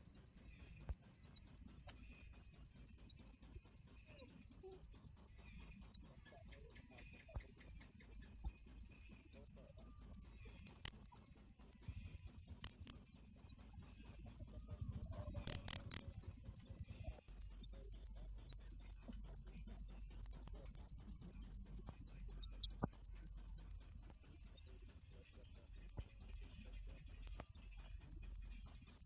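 Cricket chirping in a steady, even rhythm: short high-pitched pulses about three times a second, with one brief break about two-thirds of the way through.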